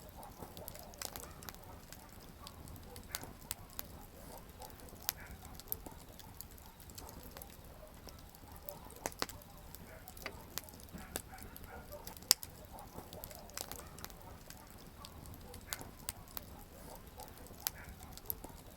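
Wood campfire crackling: irregular sharp pops and snaps from the burning firewood, several louder than the rest, over a low steady rush of the flames.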